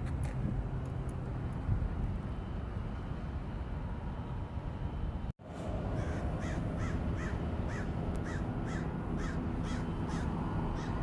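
A bird calling in a quick, evenly repeated series of short calls, about two a second, beginning some six seconds in after a brief break in the sound. Under it runs a steady low rumble of wind and distant noise.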